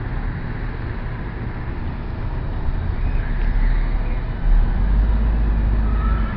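Street traffic noise: a steady rumble of passing vehicles that grows heavier about four and a half seconds in.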